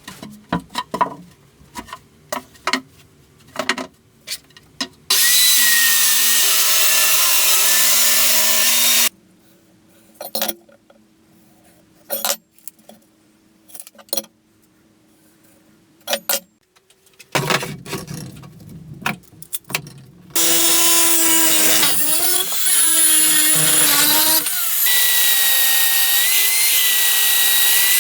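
An electric grinder working steel in two long runs, a steady motor whine under a dense grinding hiss, with sharp metal clinks and knocks of parts being handled between runs.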